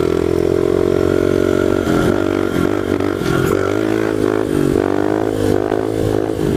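1998 Honda XR100 pit bike's single-cylinder four-stroke engine pulling hard in fourth gear during a wheelie. It holds high revs for about two seconds, then revs up and down repeatedly as the throttle is worked.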